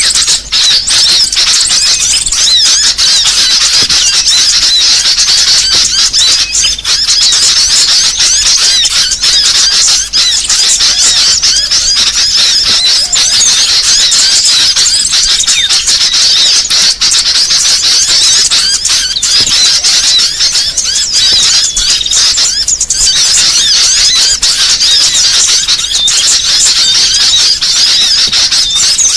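Bird-lure recording of small songbirds: a loud, dense commotion of many high-pitched chirps and twitters overlapping without pause. It is a noisy bird call track played to lure small birds in.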